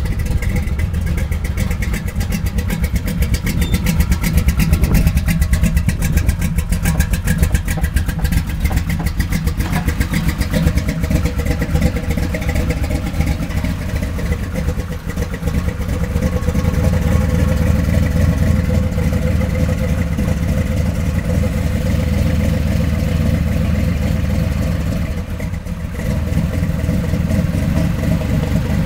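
A hot-rodded 1969 Camaro Z/28's 427 big-block V8 running at idle, its exhaust pulses coming rapidly and evenly, a little louder past the halfway point.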